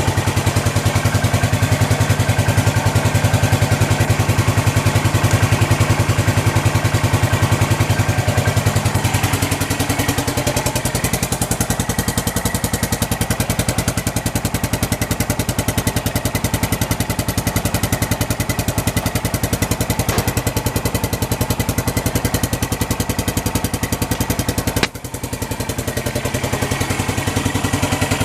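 Yamaha SR400's air-cooled single-cylinder engine idling with an even, steady beat. Its low tone shifts about ten seconds in, and the sound dips sharply for a moment near the end.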